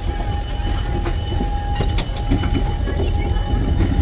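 Locomotive and coupled railroad cars: a steady low engine rumble with a thin steady whine above it, and a few sharp metallic clanks about one and two seconds in.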